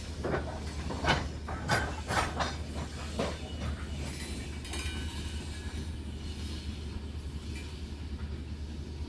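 Mauritanian iron-ore freight train running with a steady low rumble. Several sharp clanks come in the first three seconds or so, and a faint thin high squeal follows around the middle.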